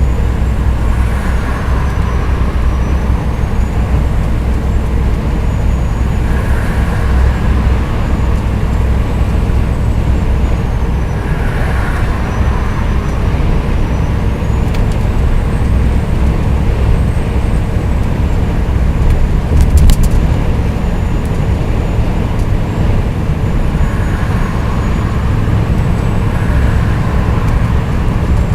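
Scania R420 truck running along the road: a steady, heavy low diesel drone with road noise. A short burst of clicks comes about twenty seconds in.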